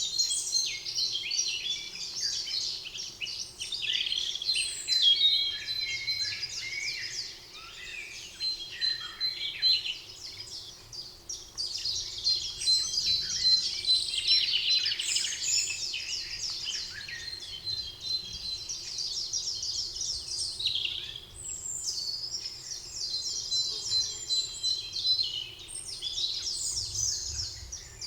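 Spring forest birdsong: several birds singing at once, a dense overlapping chorus of quick chirps and trills, with a thin steady high tone running underneath.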